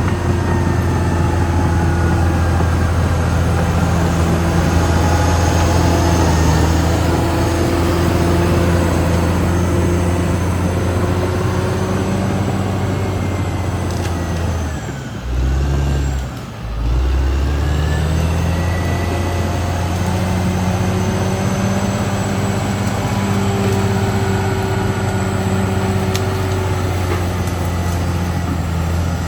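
Caterpillar D6R XL bulldozer's diesel engine running steadily under load. About halfway through the revs sag briefly, then pick up again.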